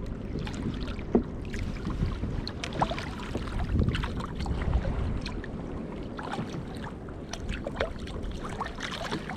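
Sea water lapping and sloshing against a kayak's hull, with many small scattered splashes and ticks over a steady low rumble.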